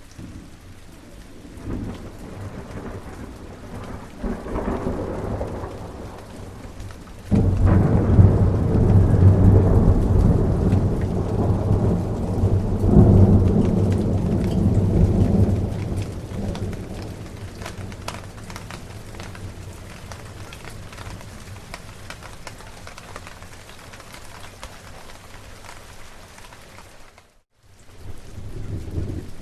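Steady rain with thunder: a small rumble about four seconds in, then a sudden loud thunderclap about seven seconds in that rolls on for about eight seconds before fading back under the rain. Near the end the sound cuts out for a moment, then the rain returns.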